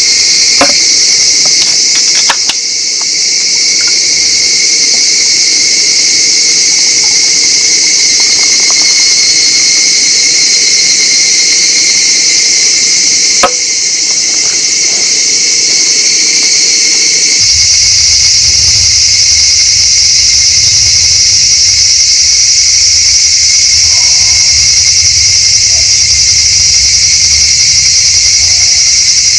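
Insects chirping in a loud, steady chorus, with a few sharp knocks near the start and a single sharp knock about halfway through.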